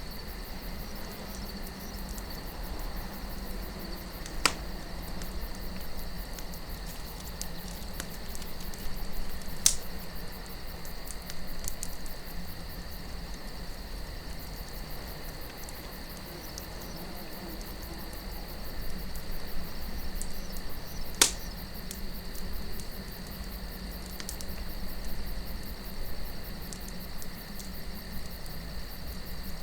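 Campfire burning with a soft crackle and three sharp pops, about 4 s, 10 s and 21 s in, over a steady high insect chirring and a low wind rumble.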